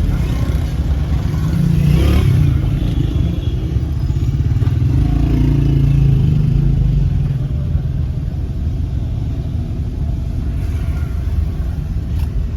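Motorcycle engines running in busy street traffic: a steady low engine drone that swells a little about two seconds in and again around the middle.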